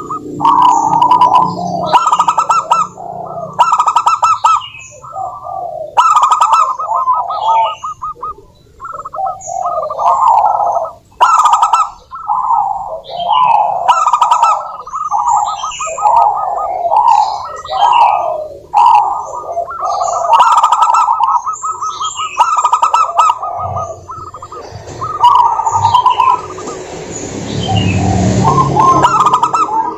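Zebra doves (perkutut) giving their rapid, trilling coo song over and over, several calls overlapping, with higher sharp chirps from small birds. Near the end a rushing noise with a low rumble rises under the calls.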